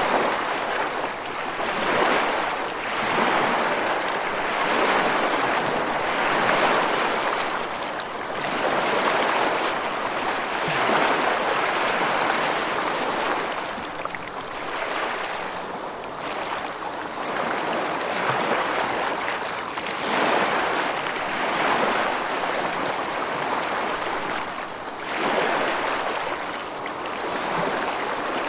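Rushing water: a continuous noisy wash that swells and eases every few seconds.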